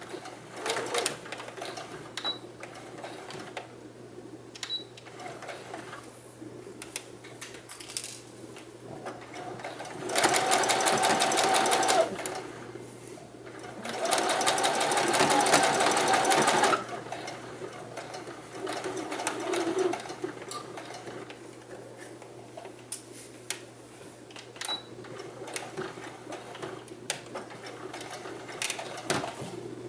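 Electric sewing machine stitching in two steady runs, one of about two seconds and then one of about three seconds, with small clicks and fabric-handling noises in between.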